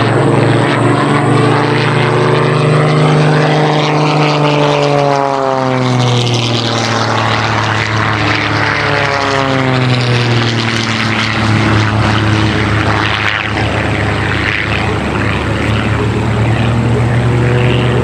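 Two Christen Eagle aerobatic biplanes' piston engines and propellers droning as they fly a trail-formation loop; the engines' pitch slides down twice, once around four to seven seconds in and again a few seconds later, as first one plane and then the other goes by. The engines have been uprated from 200 to well over 300 horsepower.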